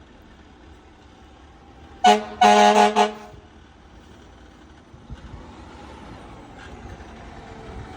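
Fire truck air horn sounding a short blast and then a longer one about two seconds in. It is followed by a low rumble of vehicle engine noise that grows from about five seconds.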